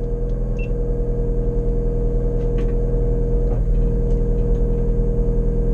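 Ford Fiesta V1600 rally car's 1.6-litre engine running at steady revs while the car stands at the stage start, heard inside the cabin; the pitch dips briefly about three and a half seconds in.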